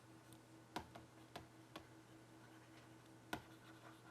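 Near silence with a faint steady hum, broken by about five short sharp clicks at uneven intervals, the loudest about a second in and near the end.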